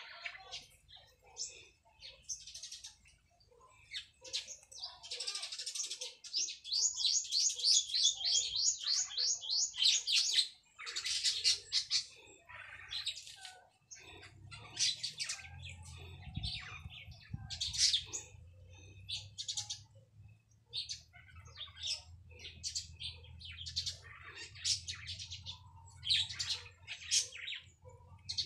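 Small birds chirping repeatedly, short high calls throughout, with one fast trill of quick repeated notes lasting a few seconds.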